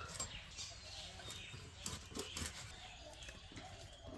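Birds chirping, with scattered light clicks and knocks.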